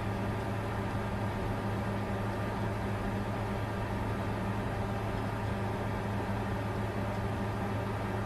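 Bitcoin mining computer running: a steady, unchanging whir with a deep hum underneath.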